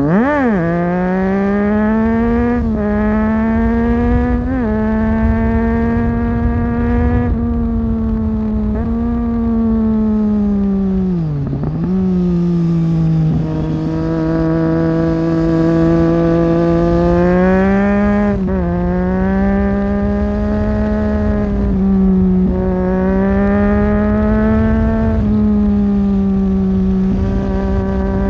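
2009 Triumph Street Triple 675's inline three-cylinder engine, breathing through a Leovince 3-2 exhaust with dB-killer, under way on the road. A quick rev blip at the start, then mostly steady running with several small shifts in pitch. Revs drop away and pick up again a little before halfway, and build and step down once more about two-thirds of the way through.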